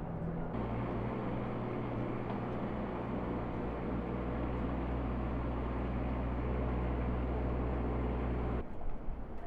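A vehicle engine idling steadily at a constant low pitch, cut off abruptly near the end.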